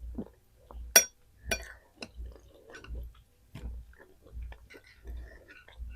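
A person chewing food close to the microphone in a steady rhythm. There are two sharp clinks about a second and a second and a half in.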